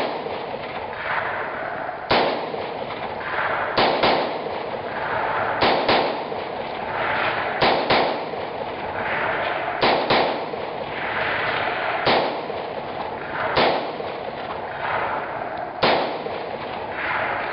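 AR-15-type semi-automatic rifle firing about a dozen shots, singly and in quick pairs, every second and a half to two seconds, each shot followed by a long echo.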